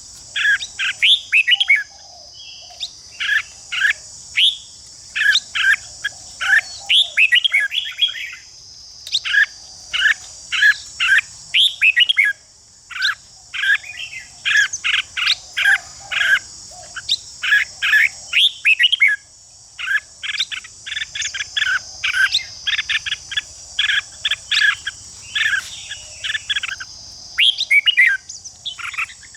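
Red-whiskered bulbuls singing and chattering in quick runs of short, clipped notes that follow one another with barely a pause. Behind them runs a steady high-pitched buzz.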